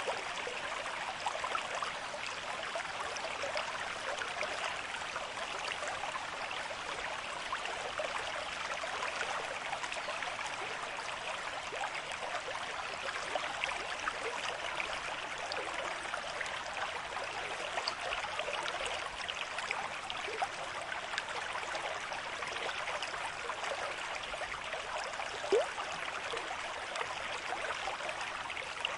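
River stream flowing at a moderate rate: a steady rushing and babbling of water with many small splashes, and one slightly louder splash about 25 seconds in.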